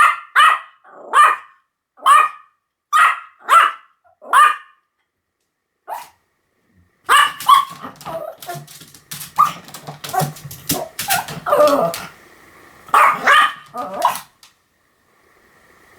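Pomeranian barking: a quick run of short, sharp, high barks, about one and a half a second, then a short pause and a single bark, followed by a denser, more ragged bout of barks over a low background hum.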